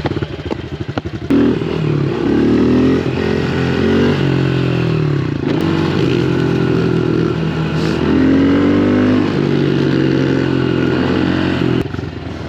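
110cc pit bike engine pulsing at low revs, then revving up about a second in and running on through rising and falling revs as the bike is ridden, easing off near the end.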